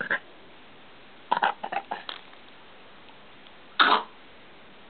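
Small dog coughing from kennel cough: a quick run of short hacking coughs about a second in, then one longer, louder cough near the end.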